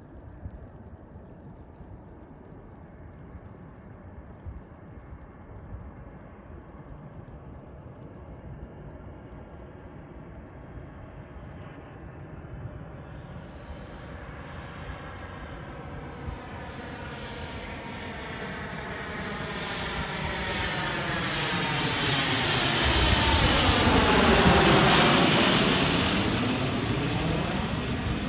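Cessna 560 Citation V twin-turbofan business jet arriving: its engine noise grows steadily louder as it approaches, peaks as it passes close about 25 seconds in, and its high whine drops in pitch as it goes by.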